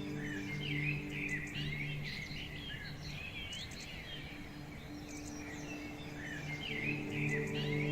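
Soft ambient new-age music of sustained pad chords with birdsong chirping over it. The pad thins out in the middle and swells again near the end.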